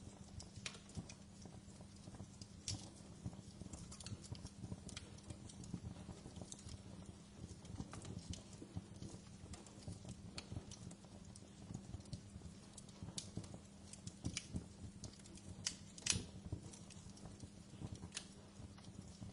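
Wood fire in a fireplace crackling, with irregular sharp pops over a low steady rumble of the flames, and one louder pop late on.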